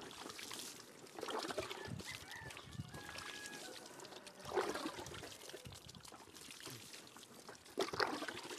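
Water poured from a hand dipper over a seated person being bathed, splashing in three louder pours about three seconds apart.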